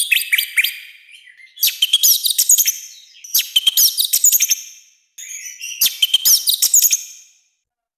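Orange-headed thrush singing loud, harsh song in four phrases of about one to two seconds each, separated by short pauses. Each phrase is a quick run of chirps and sweeping whistled notes.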